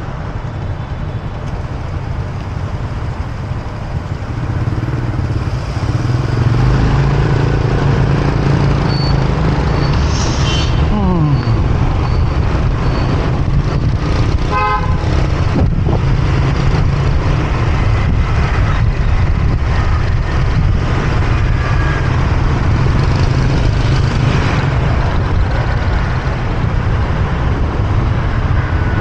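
Motorbike riding through city traffic: a steady rumble of engine and road noise that grows louder a few seconds in as it picks up speed. A vehicle horn honks briefly about halfway through.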